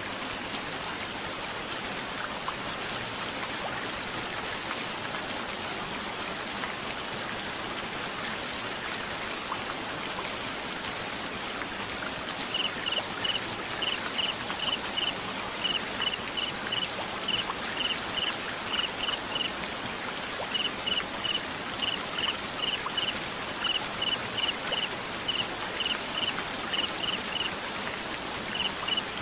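Steady rain. From about halfway through, a cricket chirps over it in short, high, even groups of three to five pulses.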